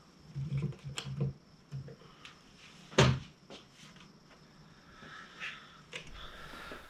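Scattered light knocks and clicks of things being handled, with one sharp knock about three seconds in.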